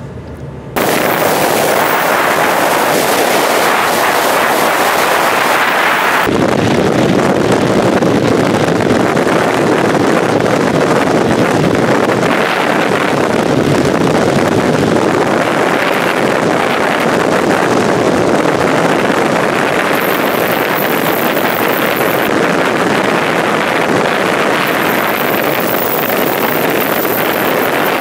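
Motorcycle under way at speed: loud, steady wind rush buffeting the microphone, mixed with road and engine noise. The sound steps up abruptly about a second in and shifts again about six seconds in.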